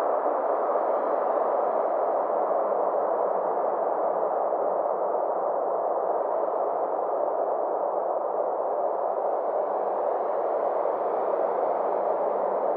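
Synthesized space-ambience drone for sleep: a steady rushing sound in the middle range, its brightness slowly rising and falling.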